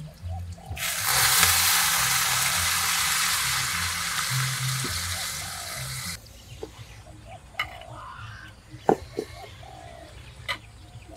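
Food sizzling loudly in hot oil in a cooking pot, starting about a second in and cutting off abruptly about five seconds later. A few sharp knocks follow, typical of a utensil against the pot, over quiet background music.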